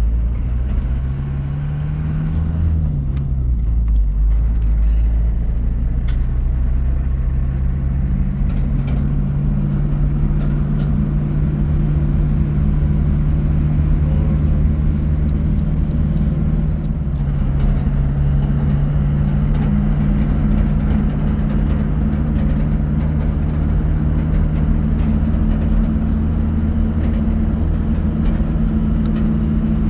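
Motor vehicle engine running steadily while driving, with low rumble. Its pitch rises and falls briefly near the start and shifts again about halfway through.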